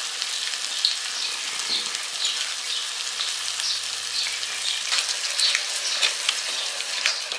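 Spiced masala paste sizzling and crackling with many small pops in hot oil in a pan, fried to the stage where the oil separates from the masala. Near the end, yogurt is added and a wooden spatula stirs it in, scraping against the pan.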